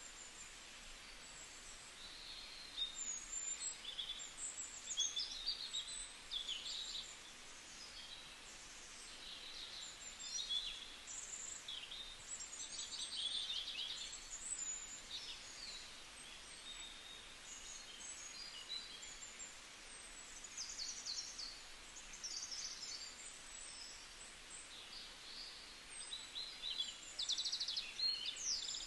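Birds chirping and calling, short high calls and quick trills coming every second or so, over a steady faint background hiss.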